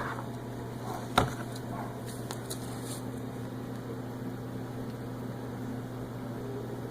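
Steady electrical hum in a small room, with one sharp knock about a second in and a couple of faint taps after it.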